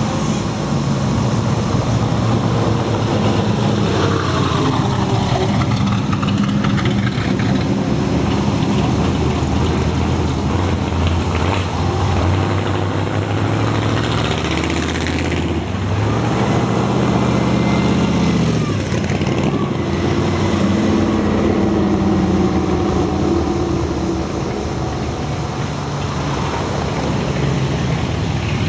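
Cars driving past one after another at a cruise, their engines running and rising and falling in pitch as each goes by.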